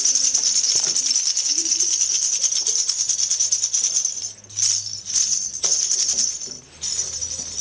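A shaker rattled rapidly and continuously, with a few brief pauses in the second half.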